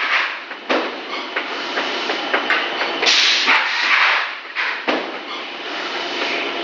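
Extruder machine running: a dense mechanical noise with scattered knocks and clicks, and a rush of hiss about three seconds in.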